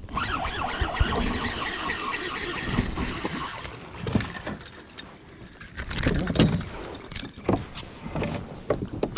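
Wind buffeting the microphone, with irregular knocks and rattles of fishing gear against the kayak.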